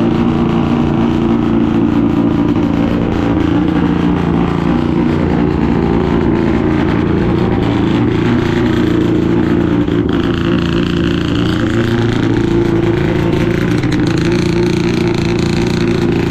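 Car engines running at a steady idle, a low, even drone with no revving peaks, and a brief higher tone about ten seconds in.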